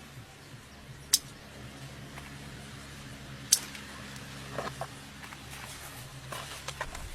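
A steady low mechanical hum, with two sharp clicks, one about a second in and one about three and a half seconds in, and a few faint knocks near the end.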